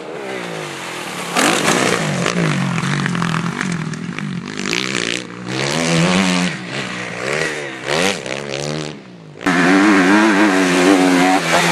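Motocross bike engine revving hard, its pitch rising and falling again and again as the throttle is worked and gears change. It briefly drops away about nine seconds in, then comes back suddenly and louder.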